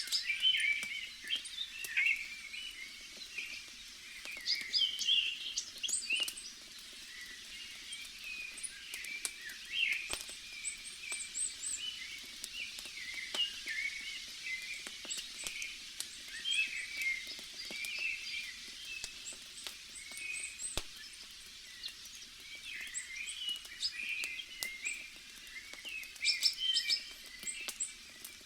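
Birds chirping and calling, many short overlapping chirps and trills, over a faint steady forest ambience. Sparse small pops of a crackling wood fire come through now and then.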